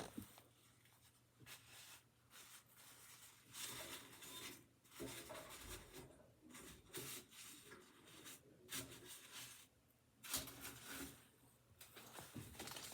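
Near silence: a quiet room with faint, scattered rustling and scratching sounds.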